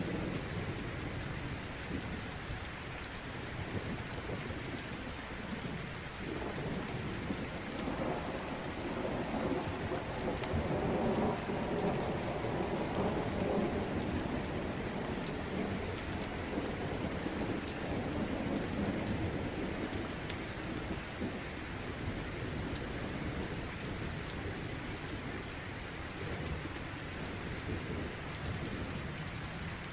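Steady rain with a low, rolling rumble of thunder that swells from about six seconds in, is strongest near the middle and dies away by about twenty seconds.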